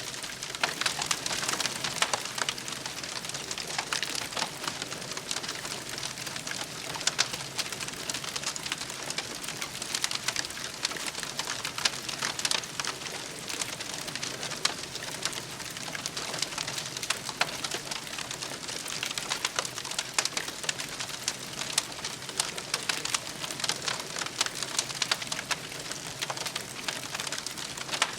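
Wood campfire crackling steadily, with dense small snaps and pops over a soft hiss.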